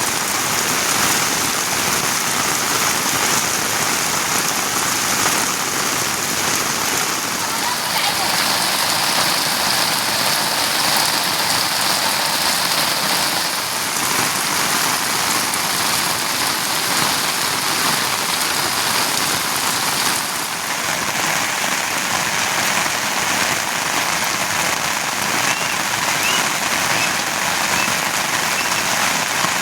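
Steady monsoon rain falling on surfaces: an even, continuous hiss whose tone shifts slightly a couple of times.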